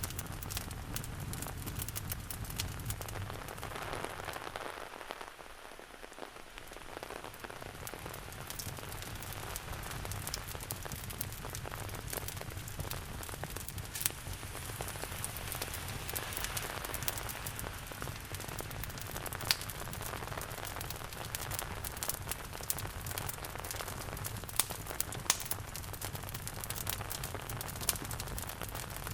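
Steady rain mixed with a wood fire crackling, its sharp pops and snaps scattered irregularly over the even hiss of the rain.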